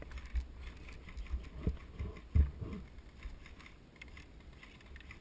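Irregular low thuds and rustling, a handful of knocks in the first half with the loudest about two and a half seconds in: movement and footsteps heard through a player-worn microphone.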